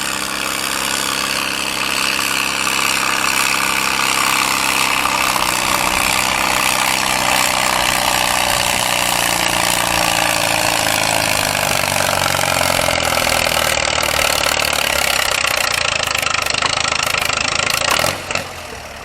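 Antique gas farm tractor engine running hard under load while pulling a weight-transfer sled. Its pitch slowly sinks as the sled drags it down, and the engine sound drops off sharply about a second before the end as the run finishes.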